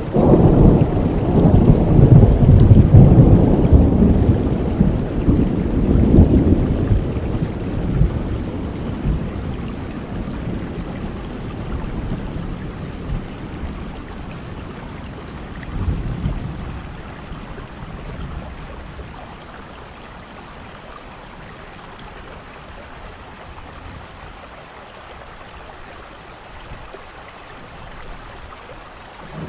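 Thunderstorm: a loud rolling peal of thunder at the start that slowly dies away over about twenty seconds, with a smaller rumble about halfway, over steady falling rain.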